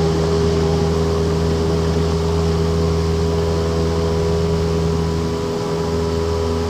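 Cessna 172's Lycoming piston engine and propeller droning steadily in flight, heard inside the cabin as an even, unbroken hum.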